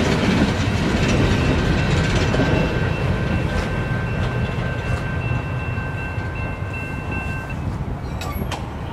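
Freight train of empty coal hopper cars rolling past, a steady rumble fading as the last cars move away, with a thin high wheel squeal from about a second in until near the end. A few sharp clicks near the end.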